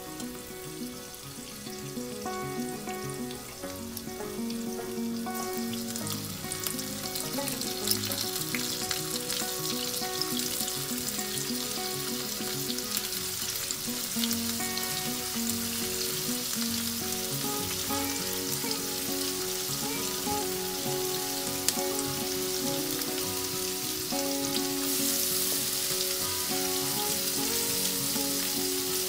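Cornflour-coated paneer pieces shallow-frying in hot oil in a non-stick pan. The steady sizzle grows louder as more pieces are laid into the oil.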